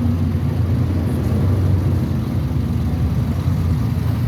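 Car engine running at low speed with a low, uneven exhaust rumble as a car drives past.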